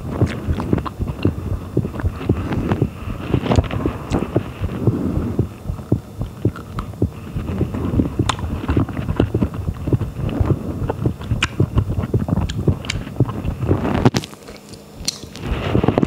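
Close-miked chewing and biting of a fresh strawberry coated in coconut shreds, with many small sharp clicks over a steady low mouth noise. It eases briefly about two seconds before the end, then resumes.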